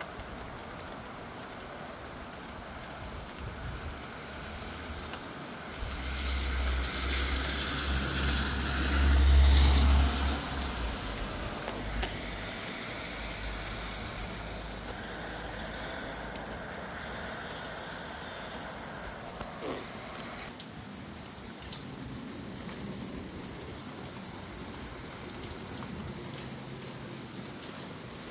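Steady rain falling. About a fifth of the way in, a louder rushing sound with a deep rumble swells, peaks and fades away over several seconds.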